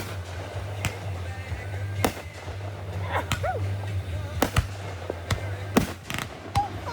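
Fireworks going off in a show: about eight sharp bangs at uneven intervals.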